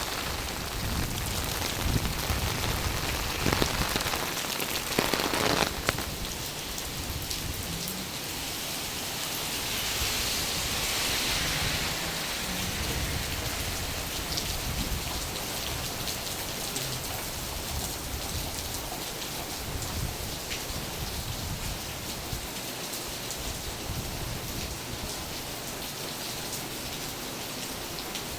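Steady rain: an even hiss of falling water dotted with many small drop taps. There are a few louder knocks in the first six seconds, and the hiss swells briefly about ten seconds in.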